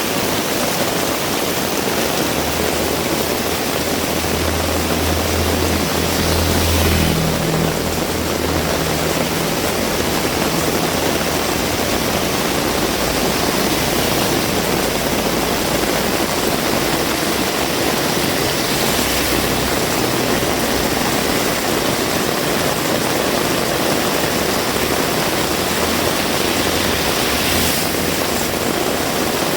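Heavy rain falling steadily in a continuous loud hiss. A vehicle's engine hum passes low under the rain, strongest about four to nine seconds in, with a fainter one near the end.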